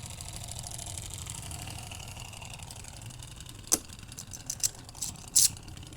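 A few short clicks of plastic Beyblade parts being handled, over a steady low hum.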